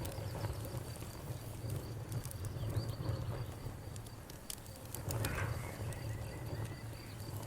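Campfire crackling, with scattered sharp pops over a low steady rumble. Birds call in the background, with a high chirp repeated at even spacing and a short call about five seconds in.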